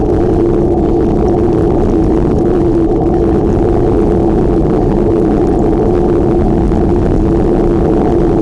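Steady wind rush on the microphone of a moving bicycle, with a low rumble and a steady hum underneath.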